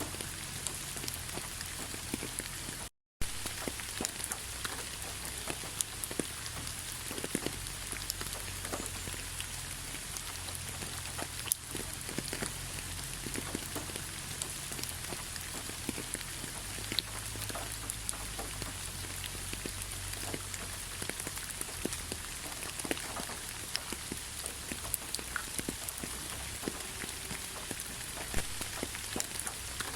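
Steady rainfall with many separate raindrops ticking sharply over an even hiss. The sound cuts out for an instant about three seconds in.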